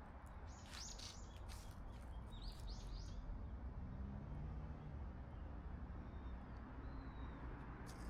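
Small birds chirping in short bursts, about a second in and again near three seconds in, with a faint thin whistle later, over a steady low outdoor rumble.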